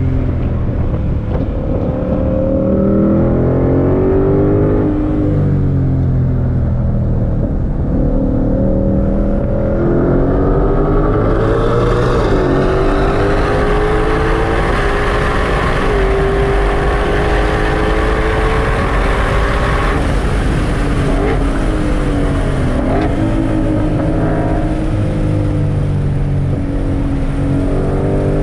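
2022 Shelby GT500's supercharged 5.2-litre V8 heard from inside the cabin under hard acceleration. The revs climb and drop at a gearshift about five seconds in, then rise in a long steady pull. About three-quarters of the way through they fall away with a few quick rises and falls, and near the end they climb again.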